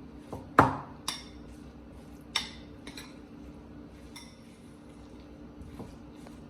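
A spoon clinking against a mixing bowl while stirring a thick cheese and mayonnaise dip: about six separate clinks, the loudest about half a second in.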